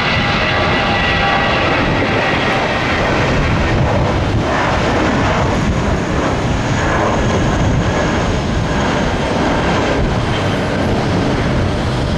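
Jet airliner taking off: a loud, steady rush of engine noise with a high whine that fades over the first few seconds.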